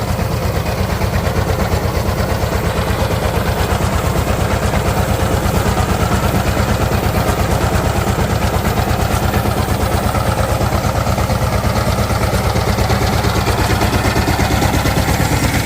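Power tiller's diesel engine running steadily at idle with a fast, even chugging pulse.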